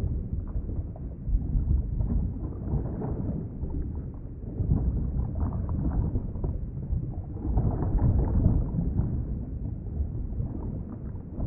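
Underwater ambience: a low, muffled rumble of moving water that swells and eases every few seconds.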